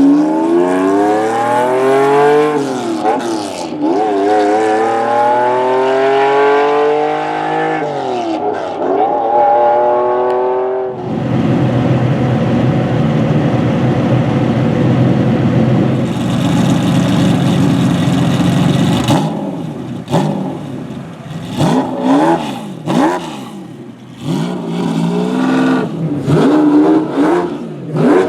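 Lamborghini Diablo GT's 6.0-litre V12 accelerating hard, its note climbing and dropping back twice at the upshifts. Then a steady rushing noise for several seconds, followed by a string of short throttle blips.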